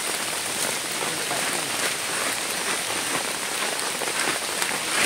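Fairly heavy rain falling steadily in the rainforest: an even hiss of drops with a few sharper drips standing out.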